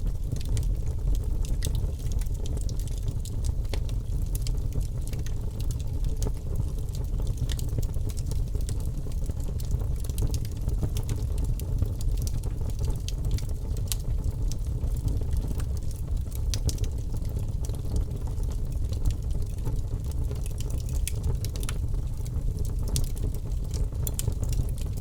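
Wood fire crackling: many small sharp pops and snaps scattered over a steady low rumble.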